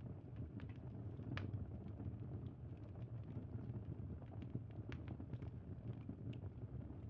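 Crackling wood fire: a steady low rumble of burning with scattered sharp pops and snaps.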